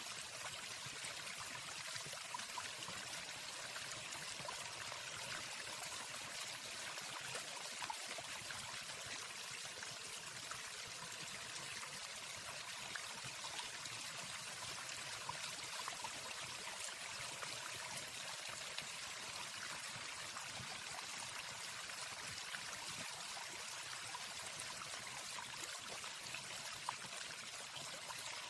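Steady rushing and splashing of a waterfall, an even hiss of falling water.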